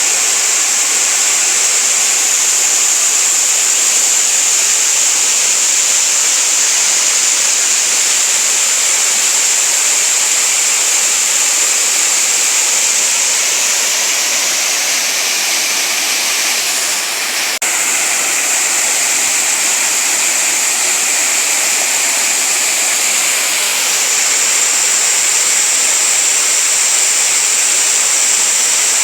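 Waterfall on a mountain stream, water falling and rushing steadily in a dense, even hiss, with a short dip and a single click about two-thirds of the way through.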